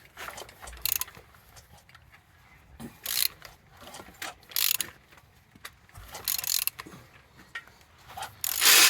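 The crankshaft of a removed Renault M9R 2.0 dCi four-cylinder diesel engine being turned over by hand with a ratchet. It goes in about six short, rattling strokes at uneven intervals, the loudest near the end. The engine turns freely and builds compression.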